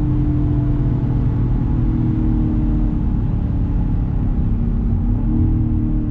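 Land Rover Defender 110's 5.0-litre supercharged V8 running steadily under way, with a deep exhaust rumble. The engine note rises slightly about five seconds in.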